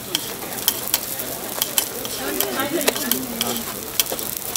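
Hotteok frying in oil on a flat steel griddle, a steady sizzle with many sharp clicks and scrapes of metal spatulas against the griddle.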